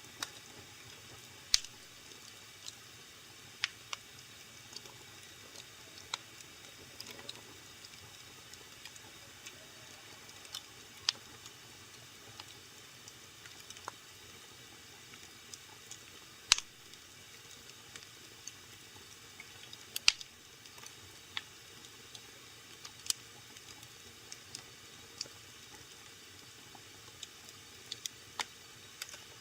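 Wood fire burning in a fireplace, crackling: irregular sharp pops and snaps over a low steady hiss, the loudest pops coming about a second and a half in, past the middle and around two-thirds of the way through.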